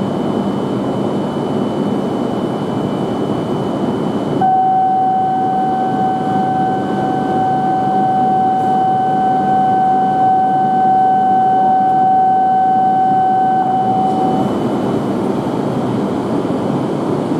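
Tohoku Shinkansen train running, a steady rushing noise. About four seconds in, a steady high tone comes in abruptly and holds for about ten seconds before fading out.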